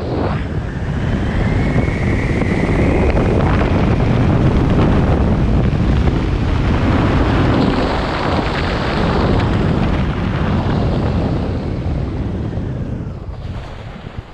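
Loud wind noise rushing over the microphone, a steady roar that swells in the first few seconds, holds, and fades away near the end.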